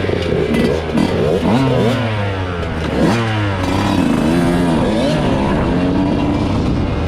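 Off-road vehicle engines revving, several at once, their pitch climbing and dropping in quick blips over a steadier low engine note.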